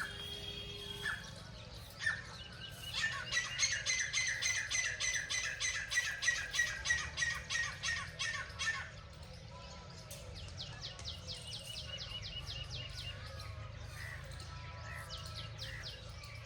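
Birds calling: a fast run of harsh, evenly repeated squawks for several seconds, then quicker series of short falling chirps, over a steady low rumble.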